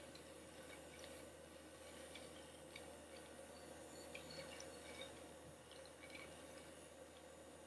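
Near silence: the faint steady hum of a small USB-powered DC motor and fan in a homemade plastic-bottle vacuum cleaner, with a few faint light ticks.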